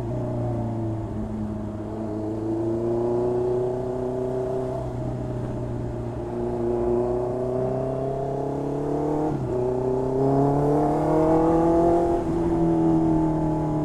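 Honda CB650R inline-four engine running through an aftermarket exhaust while riding, its note rising and easing gently as the bike accelerates and rolls off, with short breaks in the note about nine and twelve seconds in.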